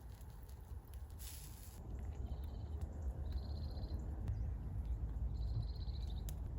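An animal's high, buzzing trill, heard in three short bouts, over a steady low rumble.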